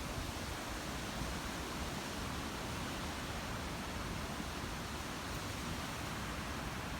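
Steady, even rushing noise of storm wind outdoors.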